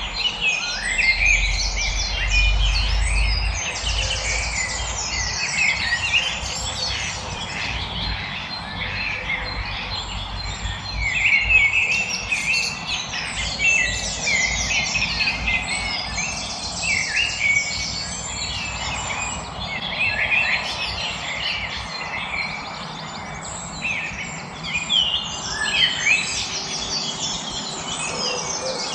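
A chorus of several songbirds chirping and trilling over one another without a break, with a low rumble in the first few seconds.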